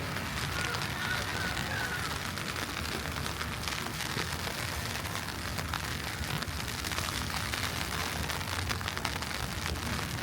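Steady city street ambience in a snowstorm: an even hiss of falling snow and slush, with a low rumble of traffic underneath.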